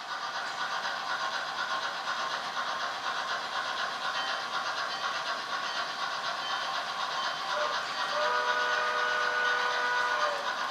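Sound-equipped HO scale model steam locomotive: a steady steam hiss, then a chime-like steam whistle of several notes blown for about two seconds, starting about eight seconds in.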